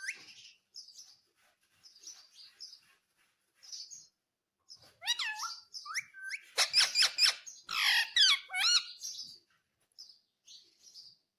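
Indian ringneck parakeet calling: soft short chirps at first, then about five seconds in a run of loud, sharp calls with quick rising and falling pitch that lasts some four seconds before it falls quiet.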